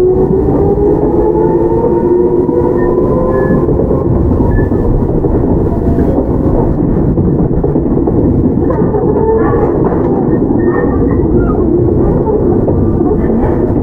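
Inside a Toyama Chiho Railway 17480-series (ex-Tokyu 8090) field-chopper electric train under way: the traction motor hum rises in pitch for the first few seconds, then levels off and fades, over steady wheel and rail rumble with scattered light clicks.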